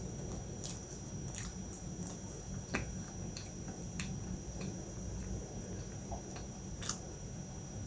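A person chewing a mouthful of soft milk pie pastry, with scattered wet mouth clicks and two sharper clicks about three and seven seconds in.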